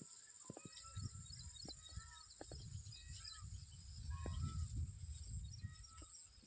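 Jungle babbler chirping: short, faint calls repeated many times, over a steady high insect drone.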